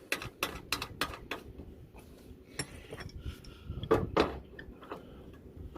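Metal hand tools clinking against the brass service valve caps of an air conditioner's outdoor unit: a quick run of clicks, about four a second, for the first second and a half, then scattered clinks with two louder knocks about four seconds in.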